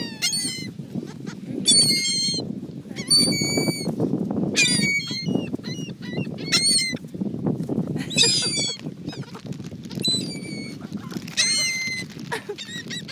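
Seagulls calling, a series of short, high cries, one burst about every second, some overlapping, over a steady low background rush.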